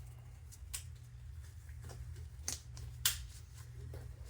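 Work gloves being pulled on, with a few sharp snaps, the loudest about three seconds in, over a steady low hum.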